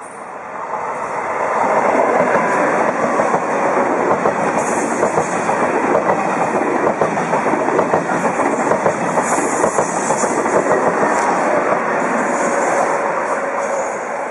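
TGV high-speed train passing at speed: a loud rush of wheel and air noise that builds over the first two seconds, holds steady, then eases off near the end.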